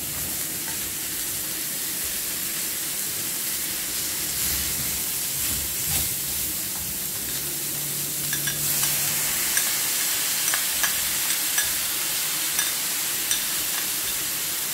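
Chopped snake gourd frying with a steady sizzle in a pan with ghee and a mustard-seed, cumin and curry-leaf tempering, being stirred, with light scattered clicks in the second half.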